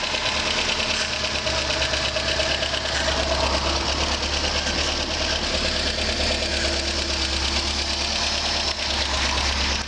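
A 1968 Volvo's engine idling steadily.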